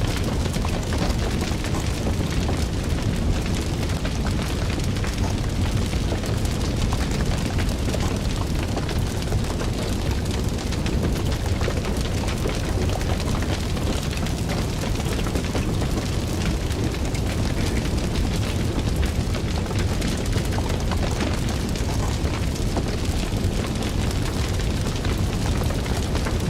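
Fire burning steadily with a dense low roar and many small crackles and pops throughout.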